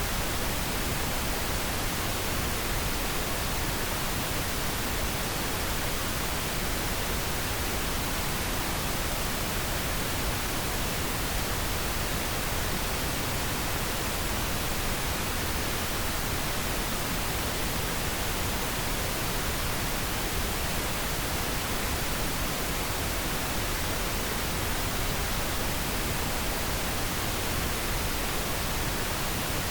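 Steady pink noise: an even, unbroken hiss spread across all pitches, with no changes or events.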